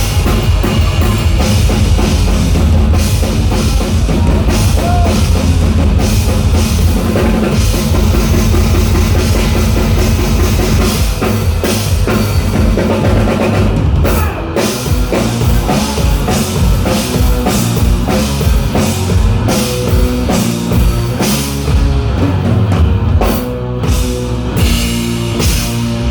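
Live rock band playing loudly, with the drum kit and bass to the fore. The music shifts in texture about halfway through.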